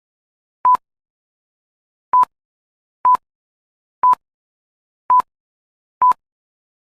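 Six short electronic beeps, all at the same pitch, the first about a second in and the rest about one a second. Each beep starts and stops with a click, and there is dead silence between them.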